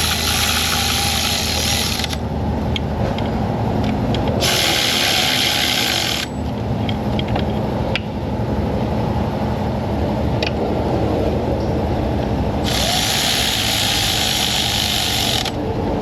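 Power tool running in three bursts of about two seconds each, with clicks of a ratchet between them, as fasteners are run in on an engine.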